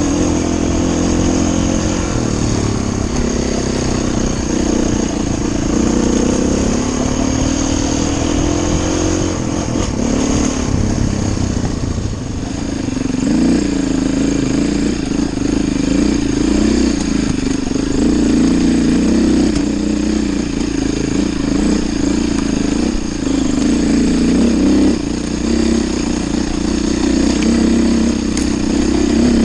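Enduro motorcycle engine running under load off-road, its pitch rising and falling continually as the throttle is worked.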